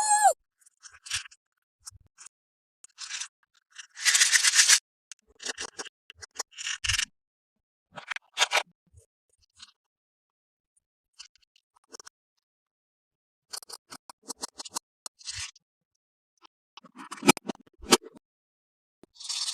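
Toys and their packaging being handled: scattered short scrapes, clicks and rustles, with one longer scrape about four seconds in.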